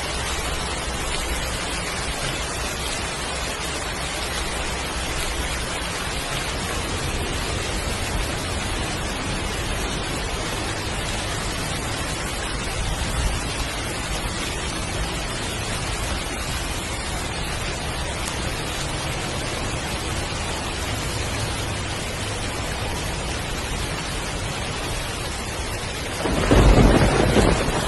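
Heavy rain falling steadily, with a low rumble of thunder underneath and a loud thunderclap near the end.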